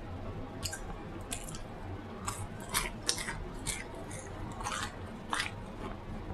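Close-miked eating: chewing with about ten short, sharp wet mouth smacks at an irregular pace, over a steady low hum.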